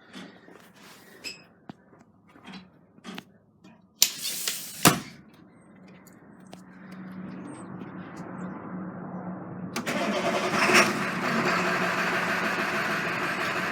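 International T444E V8 turbo-diesel in an AmTran RE school bus being cold-started: a few clicks and a short loud rush of noise, then the engine fires about ten seconds in and settles into a steady idle.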